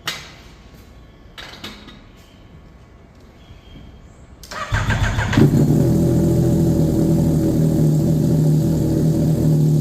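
Yamaha MT-09's three-cylinder engine cold-started: a few faint clicks, then about four and a half seconds in the starter cranks briefly and the engine catches, settling into a steady idle.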